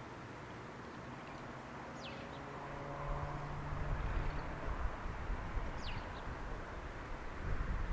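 Outdoor ambience: a small bird gives two short, high chirps that drop quickly in pitch, about two and six seconds in, over a low rumble that swells in the middle and again near the end.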